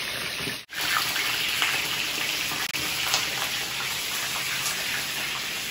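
Whole brinjals (eggplants) sizzling steadily in hot oil in a kadai on a gas stove, a constant hiss with a few faint pops, broken by a brief dropout under a second in.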